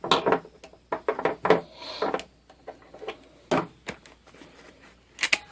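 Hand tools being handled and set down, giving a string of short, irregular clicks and knocks with a brief rustle about two seconds in and a sharp double knock near the end.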